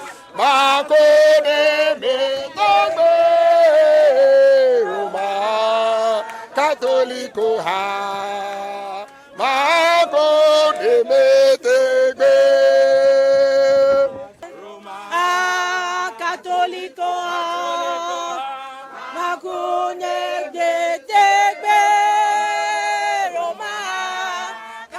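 Group of voices singing a chant-like song in a rhythmic call, sung phrases held and sliding in pitch with short breaks between lines.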